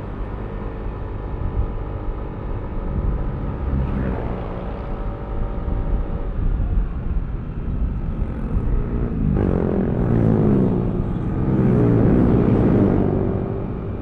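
Yamaha Aerox V3 scooter's 155 cc single-cylinder engine running steadily under way, with road and wind noise. From about nine seconds in a louder rushing sound swells for a few seconds and eases off near the end.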